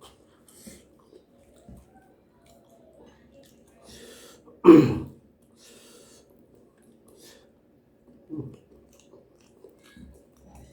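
A person chewing food close to the microphone, with soft scattered mouth sounds. One much louder, short burst comes about halfway through, and a smaller one near the end.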